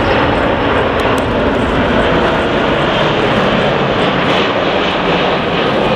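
Jet airliner engines running loud and steady, an even rumble with no change in pitch.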